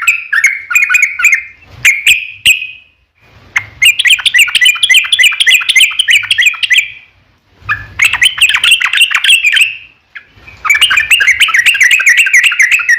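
Yellow-vented bulbul singing long phrases of rapid, bubbling chattering notes. The phrases repeat with brief pauses of about half a second between them.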